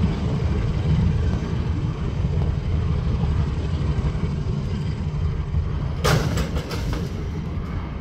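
Steam-hauled train moving away along the line, with a diesel locomotive on the rear: a steady low rumble that slowly fades. A brief crackle about six seconds in.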